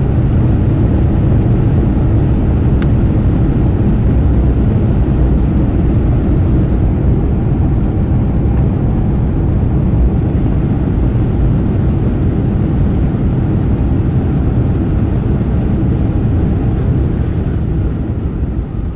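Cabin noise of a Boeing 737-800's landing rollout: a loud, steady rumble of the CFM56 engines and the wheels on the runway. It swells right after touchdown, typical of reverse thrust, and eases off near the end as the jet slows.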